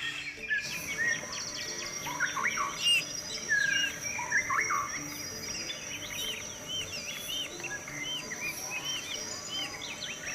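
Birds calling: many short chirps and arching whistled notes, some overlapping, over a steady high-pitched hum.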